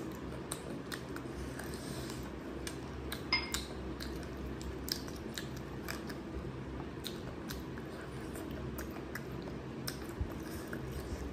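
Close-up eating sounds: chewing and wet mouth smacks and clicks as rice and mutton curry are eaten by hand, with the squish of curry-soaked rice worked between the fingers. One sharper click stands out about three seconds in.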